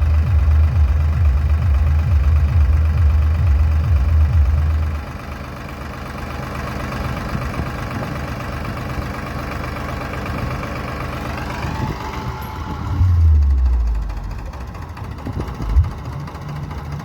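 Tractor engine running, loud and heavy for the first five seconds, then dropping back to a quieter run. A rising whine builds about twelve seconds in, followed by a brief surge and a single knock near the end.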